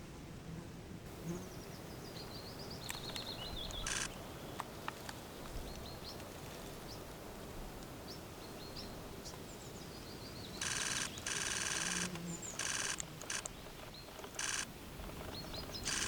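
A small songbird chirping in short, high, falling phrases, and a camera shutter firing in rapid bursts: one brief burst about four seconds in, then several bursts of under a second each from about ten seconds on.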